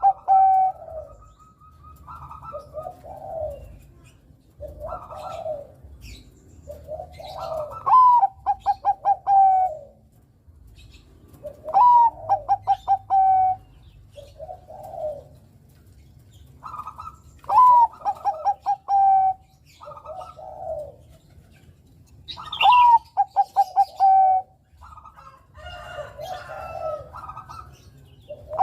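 Zebra dove of the Thai-bred 'Bangkok' perkutut line cooing its song again and again, a phrase every four to five seconds. Each phrase is a rising opening note, a quick run of short clipped notes, and a held final coo. Softer, lower coos sound between the phrases, with faint high chirps of small birds behind.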